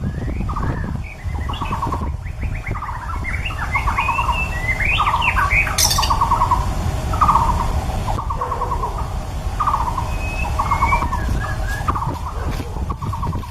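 White-rumped shama singing: short, harsh rattling chatters repeated about once a second, mixed with brief whistled notes, over a steady low rumble.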